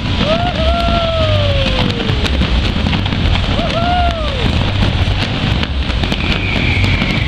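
New Year fireworks display: a dense, continuous crackle of many small pops over a low rumble of bangs, with two pitched whistles that rise and then fall, one about a second in and another about four seconds in.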